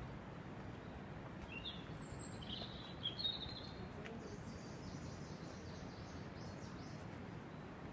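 Small songbirds calling: a few quick high chirps about two to three seconds in, then a fainter rapid high trill, over a steady low background rumble.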